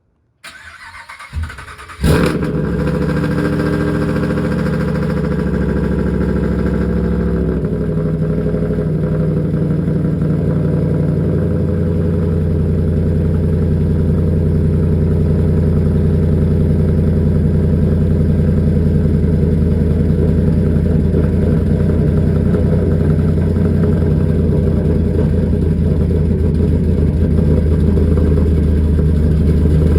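A Hemi V8 truck engine is cranked briefly and catches about two seconds in, then settles into a steady idle. The idle eases to a slightly lower, even note after several seconds.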